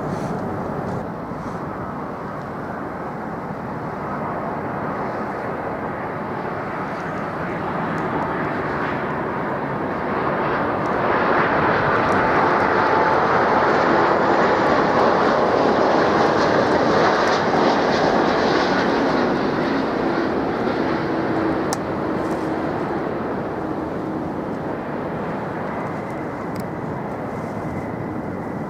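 Jet airliner passing on its landing approach, its engine roar swelling to a peak about halfway through and then fading away.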